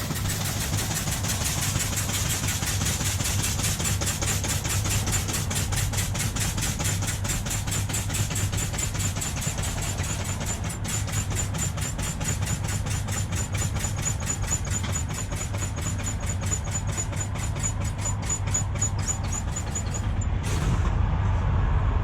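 A heavy diesel truck engine idling steadily, with a fast, even ticking over it that stops abruptly near the end.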